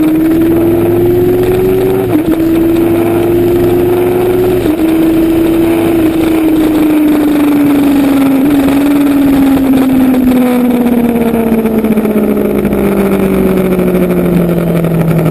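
Motorcycle engine running under way over a steady rush of noise. Its note rises for the first couple of seconds, dips briefly twice, then falls slowly as the bike eases off.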